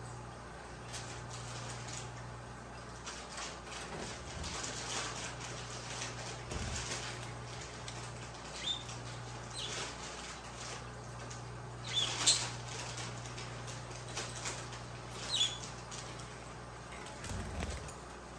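Pet budgerigars making a few short, high chirps over light scratching and rustling; the loudest chirps come as a pair about two-thirds of the way through.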